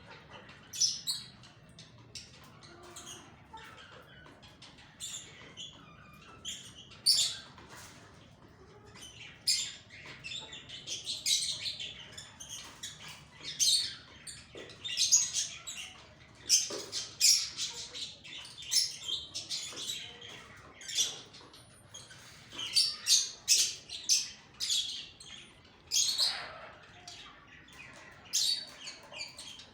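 Birds chirping and squawking in many short, high calls that come irregularly and crowd together from about a third of the way in.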